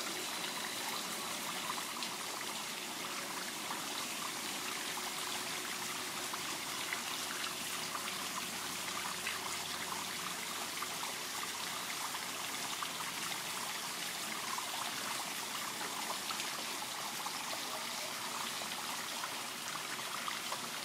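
Water trickling steadily into a garden pond, an even running-water sound with no change.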